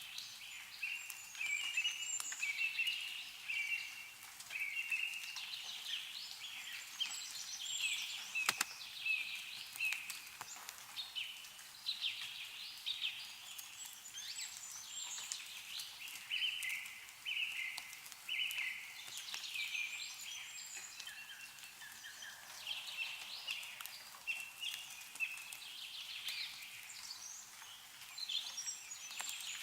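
Small birds chirping and singing without pause in short, repeated high notes, with scattered sharp drips and ticks of meltwater falling from snowy trees.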